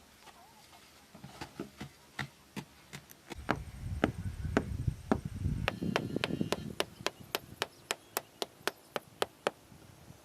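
A hand tool striking wood in repeated sharp chopping knocks, at first spaced out and then steady at about three a second, with a low rumble under the knocks in the middle.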